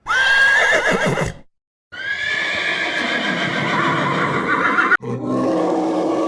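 An animal call heard twice: a short call that rises and wavers, a brief gap, then a long wavering call. About five seconds in, a lower-pitched animal sound from a different recording begins.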